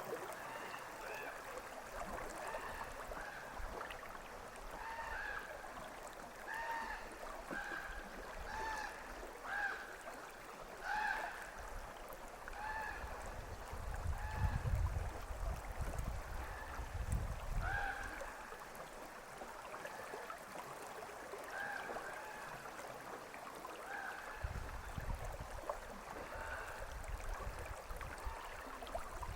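A crow cawing over and over, short calls about once a second, above the steady rush of a flowing river. Bursts of low rumble come in about halfway through and again near the end.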